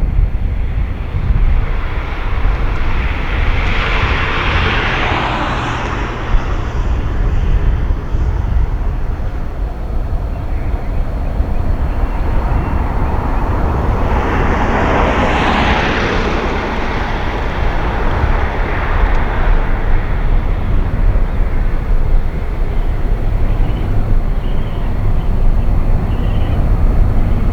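Jet airliner engine noise: a steady low rumble with two louder swells of hissing roar, about four seconds in and again near the middle.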